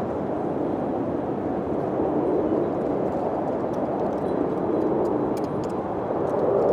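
Wind blowing steadily, swelling in gusts twice, with faint scattered high clicks over it.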